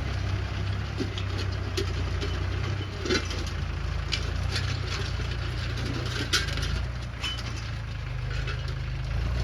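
Mahindra 265 DI tractor's three-cylinder diesel engine running steadily, with scattered metallic clicks and knocks over it, two of them sharper, about three and six seconds in.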